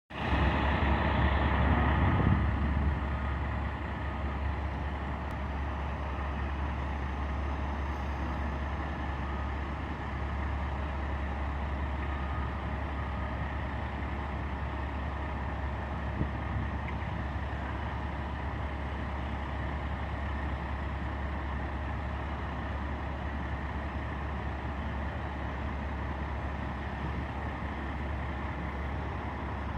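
A motor vehicle's engine running steadily as a low rumble, louder for the first couple of seconds and then holding an even level.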